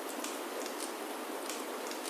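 Steady hiss of rain falling on a wooden chalet roof, with a few sharp crackles from a wood fire in the fireplace scattered through it.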